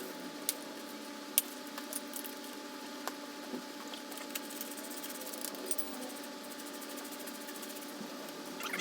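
Scattered light metallic clicks and clinks of hand tools and small parts being handled during motorcycle engine removal work, over a steady background hum; the sharpest click comes about a second and a half in.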